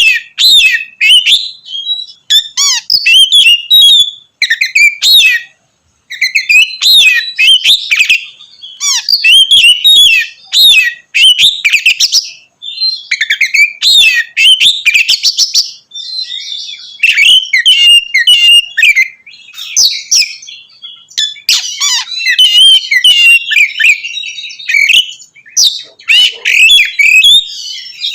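Oriental magpie-robin (kacer) singing loudly in full song (ngeplong): a fast, continuous run of varied whistles, slurred notes and chattering phrases, with one short pause about five and a half seconds in. This loud, open song is the kind used to provoke rival magpie-robins into singing.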